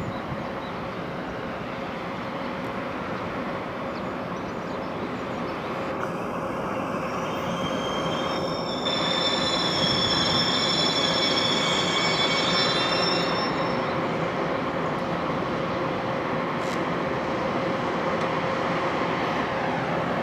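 Freight train hauled by an EF510 electric locomotive rolling along the rails with a steady rumble, and a high-pitched wheel and brake squeal from about seven to fourteen seconds in, typical of a train slowing to stop at a station.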